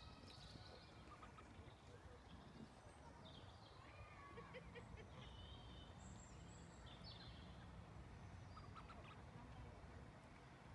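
Faint lakeside ambience: birds giving scattered short chirps and whistled calls over a low steady background rumble.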